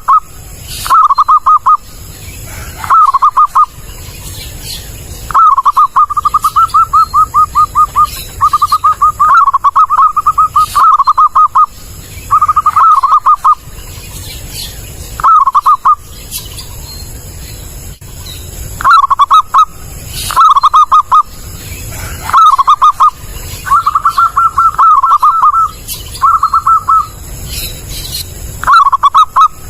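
Zebra dove (perkutut) cooing loudly: bouts of rapid staccato coo notes, each bout lasting up to a couple of seconds, repeated with short pauses between them, over a low steady hum.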